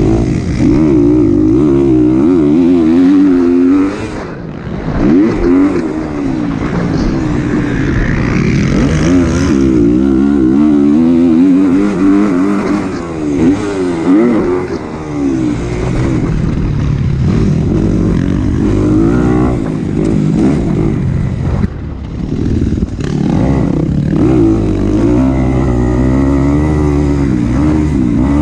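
Single-cylinder four-stroke engine of a Kawasaki KX250 motocross bike, revving hard and repeatedly rising and falling in pitch through shifts and throttle changes. The throttle is chopped briefly twice.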